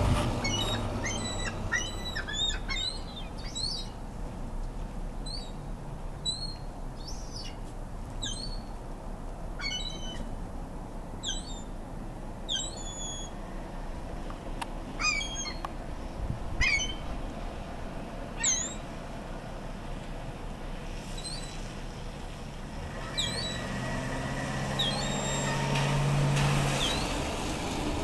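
Gulls calling in a feeding squabble: many short, sharp, high calls, some in quick clusters, scattered throughout. A low hum rises and fades near the end.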